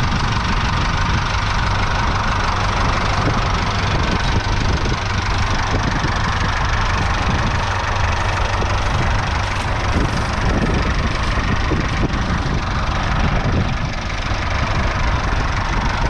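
The twin 3.8-litre four-cylinder diesel engines of a Doe 130 tractor running steadily.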